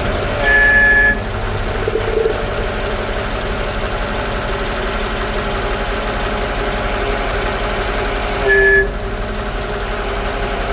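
Car engine idling steadily. Twice, about a second in and again near the end, a short high-pitched tone sounds over it for about half a second.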